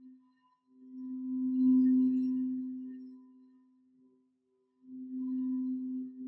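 Singing bowl sounding one low, steady tone that swells in and slowly fades, then swells again near the end.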